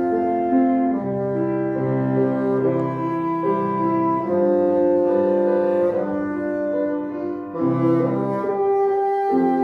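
Bassoon playing a slow melody of held notes over piano accompaniment.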